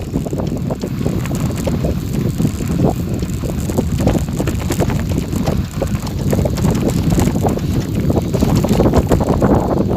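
Heavy wind buffeting the microphone, over a dense, irregular crunch and rattle of moving along a gravel forest road.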